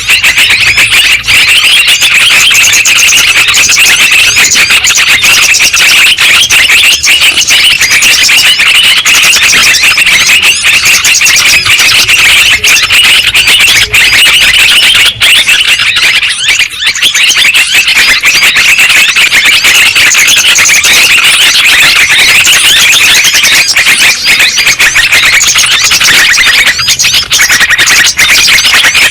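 Loud, dense chorus of trucukan (yellow-vented bulbul) calls, a bird-lure recording of many rapid, overlapping, bubbling chirps. It eases off briefly about halfway through, then comes back.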